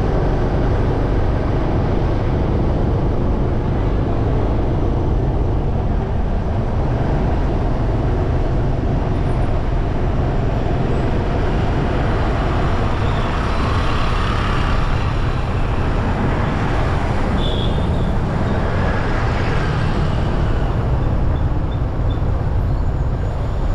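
Steady wind rumble on the microphone and road traffic noise from a moving bike, with a few brief higher-pitched sounds from passing traffic in the middle.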